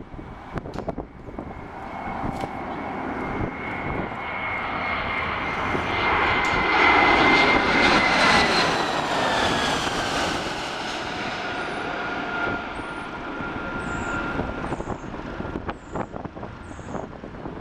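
Jet airliner flying past on landing approach: the engine noise swells to a peak about seven to ten seconds in and fades, while the engines' whine drops in pitch as it passes.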